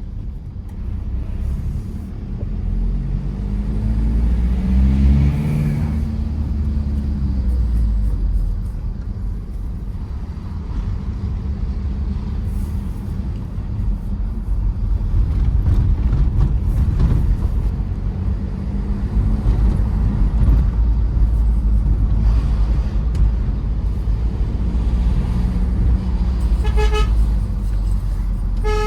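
Tata Safari Storme's 2.2-litre diesel engine and tyre noise while driving, a steady low rumble, with the engine note rising and falling about five seconds in. Near the end a car horn gives two short toots about two seconds apart.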